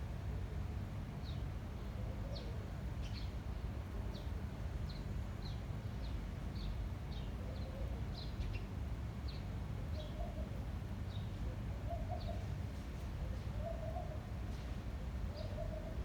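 A small bird chirping over and over, short high chirps about twice a second, with a dove cooing low several times in the second half. A steady low rumble of wind on the microphone runs underneath.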